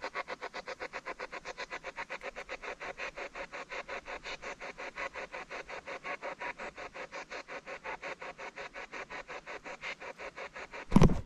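Spirit box (ghost box) sweeping, a fast steady chopping of radio static and tone fragments at about six pulses a second. Near the end a single loud knock or bump cuts across it.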